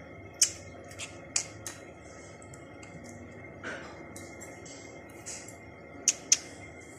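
Pet budgerigar making sharp clicks and taps: four spaced clicks in the first two seconds, a brief soft chirp a little past the middle, and a close pair of louder clicks near the end.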